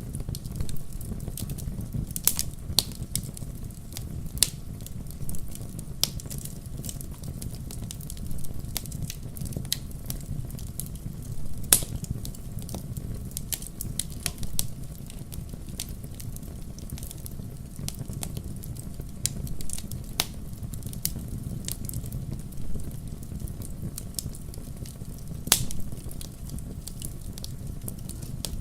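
Wood fire burning in a fireplace: a steady low rumble of flames with irregular sharp crackles and pops scattered throughout, a few louder pops standing out.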